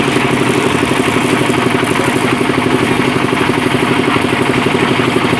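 Small engine running steadily with a fast, even chugging pulse.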